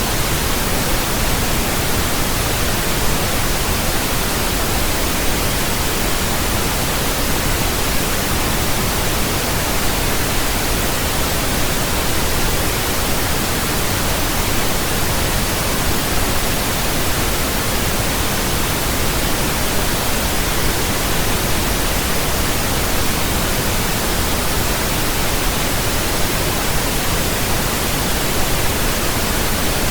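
Steady pink noise: an even, unchanging hiss spread across all pitches, with more weight in the bass than white noise.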